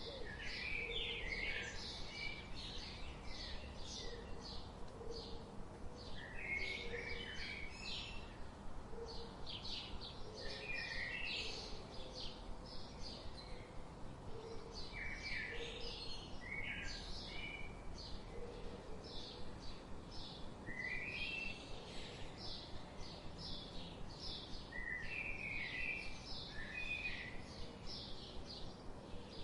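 Several birds chirping, with rapid short chirps throughout and a rising song phrase every few seconds, over steady background noise.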